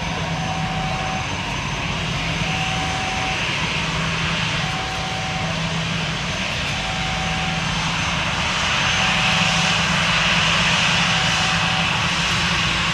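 Jet airliner engines running steadily, growing louder and more whining after about eight seconds. A faint short beep repeats about every two seconds.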